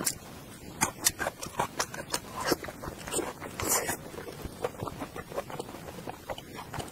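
Close-miked eating of sticky red-braised pork: wet chewing and lip smacks in irregular clicks, with a longer, louder wet sound a little over three and a half seconds in as gloved hands pull the meat apart.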